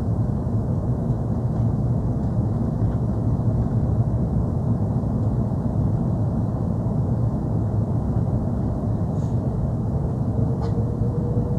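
Steady low rumble of an Airbus A330-300 cabin, the noise of the engines and airflow heard from inside the airliner, with a faint rising whine near the end.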